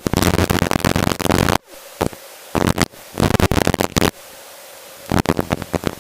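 Helicopter headset intercom with loud rushing, rumbling noise cutting in and out in irregular bursts of up to about a second and a half, over a steady hum between them.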